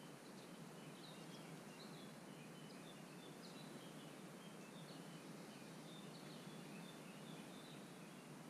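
Faint outdoor background hiss with a small bird calling in short, high chirps, one or two a second.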